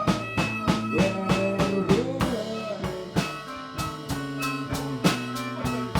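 Live blues band playing an instrumental passage between vocal lines: a steady drum-kit beat under electric guitar with sliding, bent notes.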